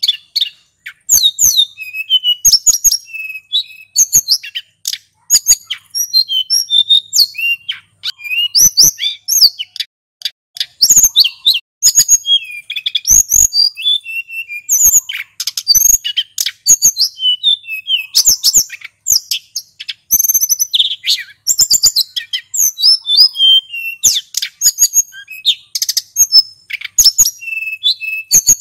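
Male sulingan gunung singing in long, unbroken runs of quick, high whistled phrases and trills, with only short pauses between phrases.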